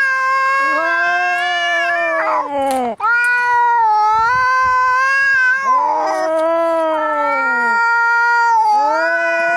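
Two cats yowling at each other as in a fight: long, drawn-out caterwauls that waver up and down in pitch, one voice lower than the other and overlapping it, with a brief break about three seconds in.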